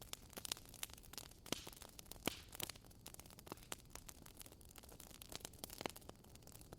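Wood fire crackling in a fireplace: irregular sharp pops and snaps over a faint low hiss, with a few louder pops, about one and a half and two and a half seconds in and again near the end.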